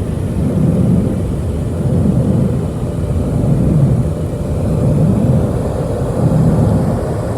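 Car wash dryer blowers blasting air over the car, heard from inside the cabin as a loud, steady rumble that swells and eases about once a second.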